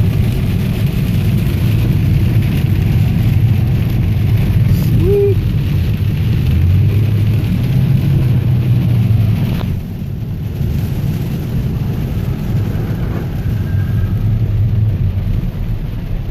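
Heavy rain falling on a car, heard from inside the cabin, over a deep steady low rumble; the sound drops a little about ten seconds in.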